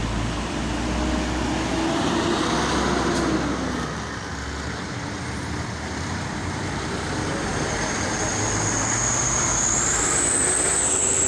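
Road traffic: motor vehicles running and passing on the road with a steady rumble, and a thin high-pitched whine over the last few seconds.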